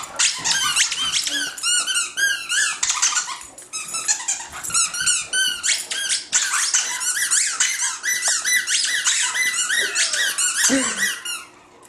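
Squeaky dog toys squeezed over and over in quick succession, a rapid run of high-pitched squeaks that stops shortly before the end.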